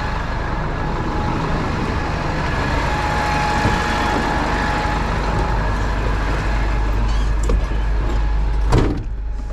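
Tow truck engine running steadily, a heavy low rumble with a faint steady whine over it.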